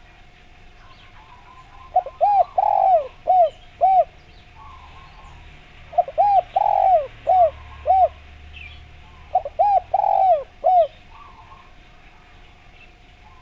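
Spotted dove cooing: three phrases of several arched, hollow coos each, a few seconds apart, with faint chirps of small birds in the background.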